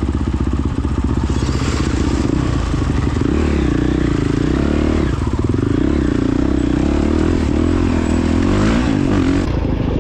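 Honda CRF450X dirt bike's single-cylinder four-stroke engine running while riding, its pitch rising and falling with the throttle.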